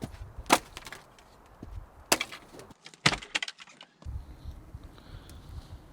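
Wood cracking and splintering under sharp strikes: three loud cracks about half a second, two seconds and three seconds in, with lighter knocks and rustling between them.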